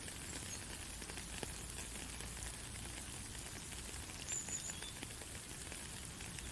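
Rain falling steadily, a constant hiss of water with many small drop ticks scattered through it. A short high-pitched chirp sounds once about four seconds in.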